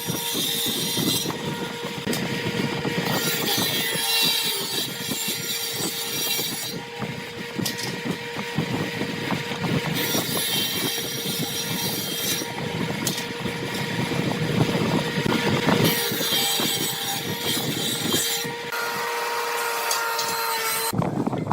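A woodworking power tool running steadily with a constant hum, its cutting hiss coming and going in stretches of a few seconds.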